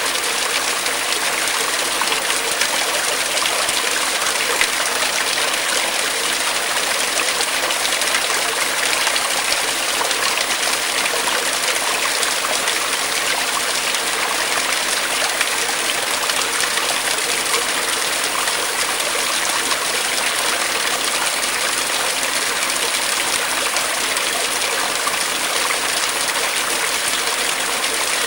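Small stream running steadily over rocks, an even rushing and splashing of water with no pauses.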